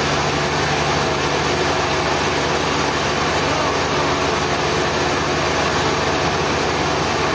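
Sawmill machinery engine running steadily at a constant speed, with no cut or change in load.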